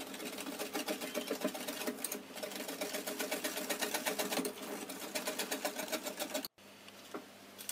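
Wire balloon whisk clattering against the sides of a glass mixing bowl in a fast, even rhythm, beating cornstarch and sugar into a pineapple-juice and evaporated-milk filling. The clatter cuts off abruptly about six and a half seconds in.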